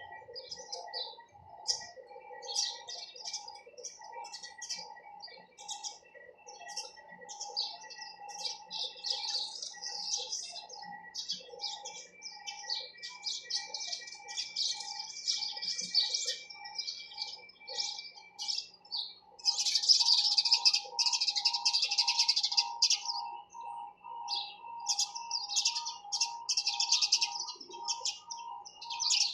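A flock of sparrows chirping in quick, overlapping bursts, with a dense, loudest spell about two-thirds of the way through.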